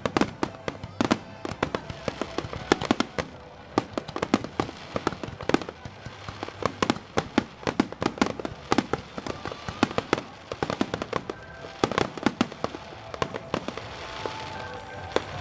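Aerial fireworks going off in quick succession: many sharp bangs and crackles overlapping all through, with the level building near the end.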